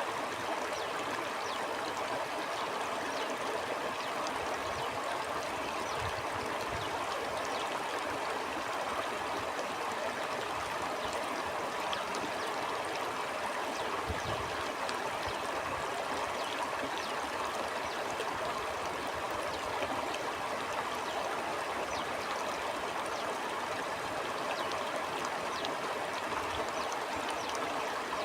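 Stream water flowing steadily: a continuous even rush with small trickling splashes scattered through it.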